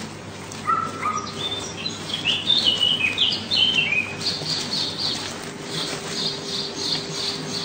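Small birds chirping: a run of short falling chirps, then quick repeated high chirps about three a second.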